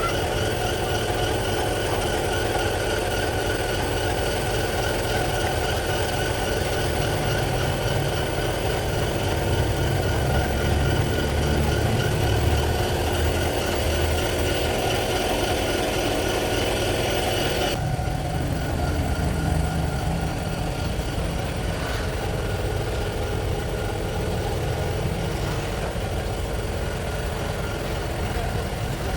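Pressure washer running steadily, its motor and pump droning under the hiss of the water spray. About two-thirds of the way through, the higher hiss cuts off abruptly while the lower machine drone carries on.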